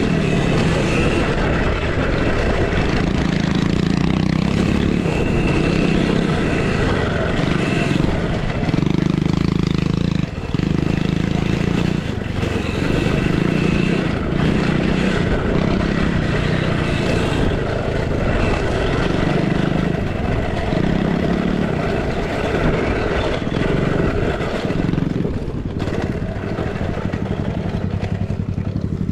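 Mini motocross bikes racing on a dirt track. Their drive noise runs steadily and swells and fades every second or two as the riders work the throttle.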